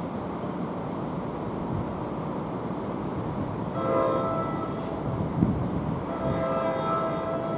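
Train horn sounding two blasts over a steady rail rumble, the first about four seconds in and the second a couple of seconds later, still sounding at the end; each blast is a chord of several notes.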